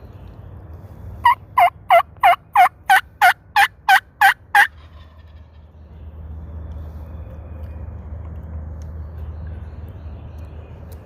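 A series of eleven loud turkey hen yelps, each note sliding down in pitch, about three a second, made on a mouth diaphragm turkey call to keep a gobbler coming in.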